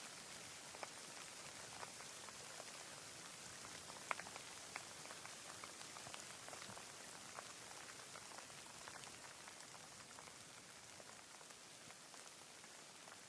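Steady, faint rain hiss with scattered individual drops ticking, one sharper drop a little after four seconds, easing slightly toward the end.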